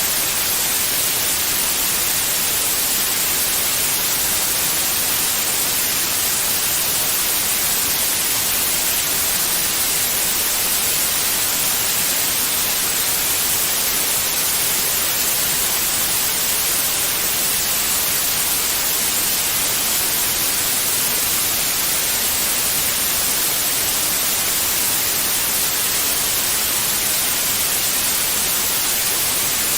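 Steady white noise: an even, unchanging hiss weighted towards the high end, with no tones or rhythm, played as a sleep sound to calm babies.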